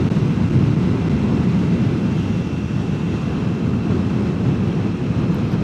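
Steady low rumble of wind and road noise at riding speed, picked up by a helmet-mounted mic, with the Kawasaki Ninja 400's engine, on its quiet stock muffler, hard to make out beneath it.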